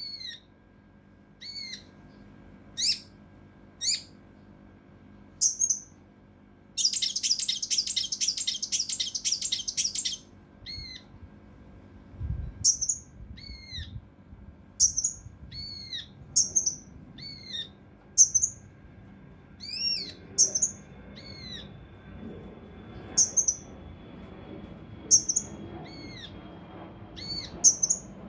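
Kinoi (cucak rante mas) calling agitatedly: short, sharp, steeply falling notes repeated every second or two. About seven seconds in comes a dense run of rapid harsh notes lasting about three seconds, the coarse, close-set 'shots' prized in tutor recordings for competition birds.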